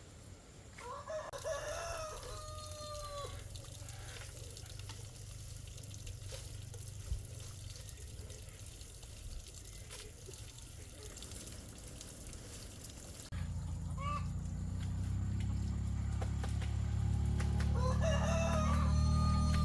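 A rooster crowing twice, a long crow about a second in and another near the end, with a short call between them.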